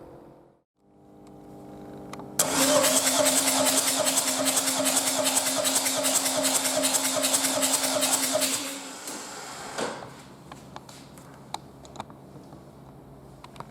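Renault 1.9 dCi F9Q 760 diesel engine on a test stand, starting suddenly and running loud and clattering for about six seconds, then shut off and winding down. A faint steady hum comes before it and after it.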